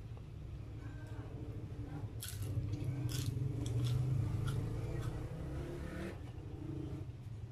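Close-up mouth sounds of a person chewing food: wet clicks and crackly smacks, thickest in the middle, over a low hum.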